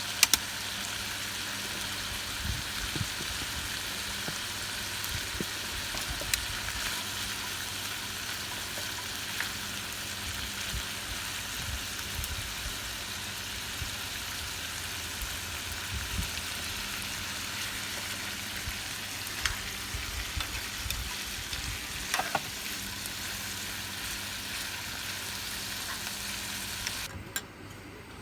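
Food sizzling steadily as it cooks, with scattered small pops and clicks. The sizzle starts and stops abruptly.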